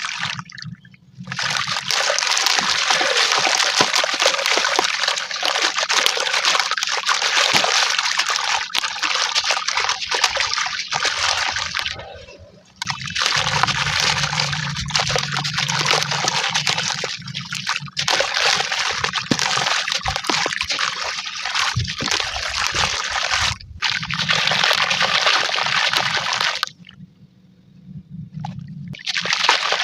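Crunchy charcoal and brick chunks crumbling, with the grit splashing and trickling into water, sped up to double speed. It is a dense crackle in long stretches, broken by a few short pauses.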